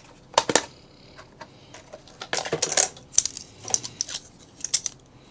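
RAM memory sticks being pulled from a desktop motherboard's slots and handled: a string of sharp plastic-and-metal clicks and light clatters, irregularly spaced.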